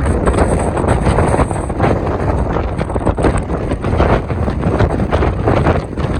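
Strong wind blowing across the microphone: loud, continuous, uneven wind noise.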